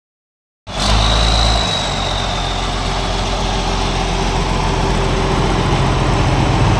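Ford 8830 tractor's diesel engine running steadily; it cuts in abruptly about a second in. A faint high whine over it sinks a little in pitch over the first couple of seconds.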